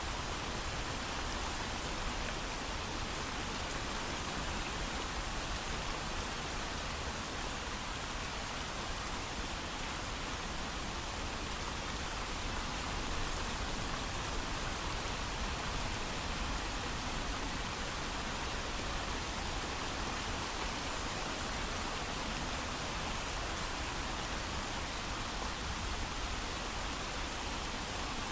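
Steady heavy rainfall, an even hiss of rain with no thunder.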